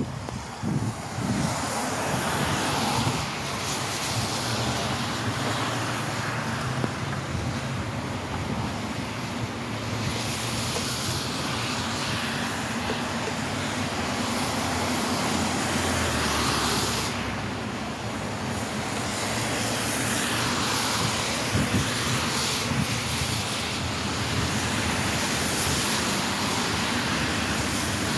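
Car driving on wet roads: steady tyre and road noise over a low engine hum, swelling and easing gently.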